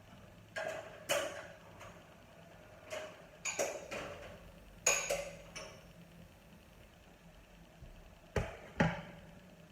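A series of irregular sharp knocks and clinks of hard objects, some in quick pairs, each ringing briefly, with a quiet stretch of a few seconds before two more near the end.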